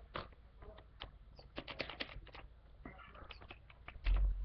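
Hard plastic toy-track pieces clicking and clattering as they are handled and fitted together: a string of sharp, irregular clicks, with a low thump near the end.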